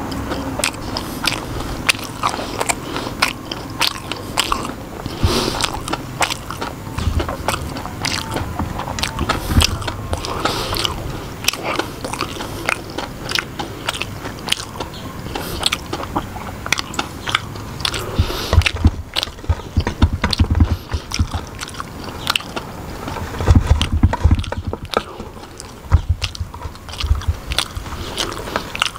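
Close-up crunching and chewing of crispy fried mushroom: a dense run of sharp, irregular crunches as he bites and chews.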